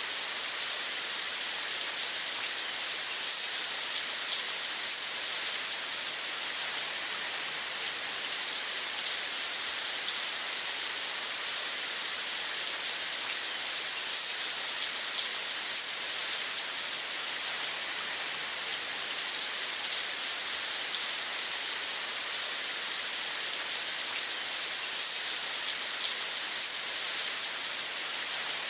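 Steady rain falling: an even, unchanging hiss of many small drops.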